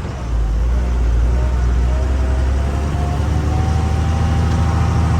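Truck engine running steadily, its low rumble growing louder about a third of a second in, with a faint whine that rises slowly in pitch.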